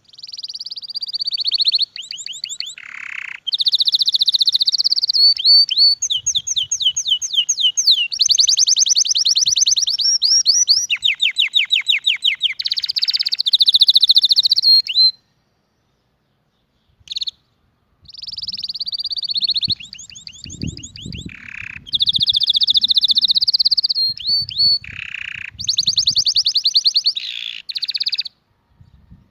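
Domestic canary singing: long runs of rapid repeated trills and rolling phrases, in two long bursts of song with a pause of about three seconds in the middle.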